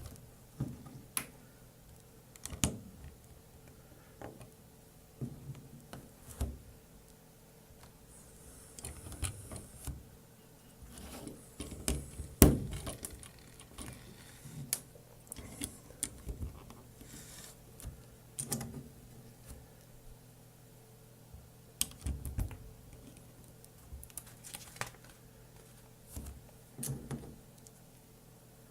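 LEGO bricks being handled and snapped together: scattered small plastic clicks and rattles, with one sharper snap about twelve seconds in.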